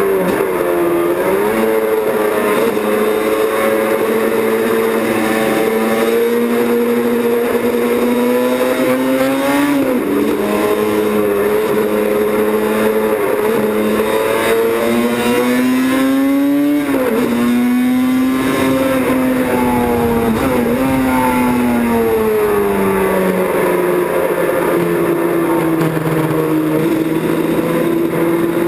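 Racing motorcycle engine running hard at high revs. The pitch dips sharply and recovers several times, as at gear changes or lifts of the throttle, then settles at lower revs for the last few seconds.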